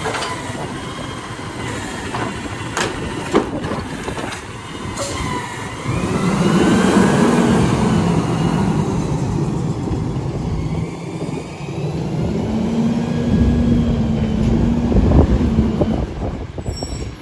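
A McNeilus AutoReach garbage truck at work: its engine runs up and holds for several seconds, with gliding squeals and whines above it and a few sharp knocks.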